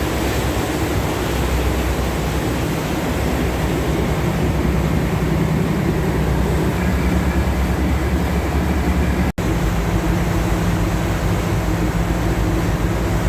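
Tour boat's engine running steadily under way, a low hum under a steady rushing noise, with a momentary dropout about nine seconds in.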